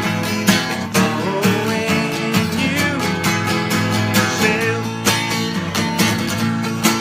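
Acoustic guitar strummed in a steady country rhythm as an instrumental break between verses of a song.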